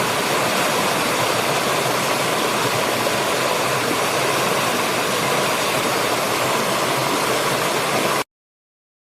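Steady rushing noise with no distinct tones, cutting off abruptly about eight seconds in.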